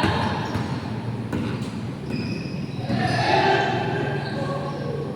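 Basketball game sounds: a ball bouncing on the court, with a few sharp knocks and players' voices calling out about three seconds in.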